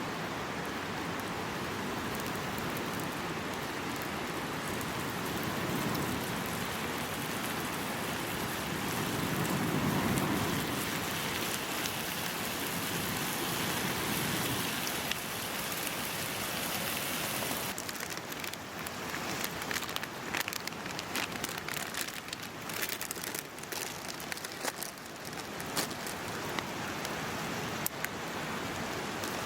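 Pork frying in a pan, a steady sizzle that turns to sharp, spitting crackles about two-thirds of the way in.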